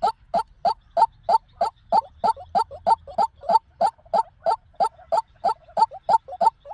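White-breasted waterhen calling: a steady, rapid series of short, harsh notes, about three a second.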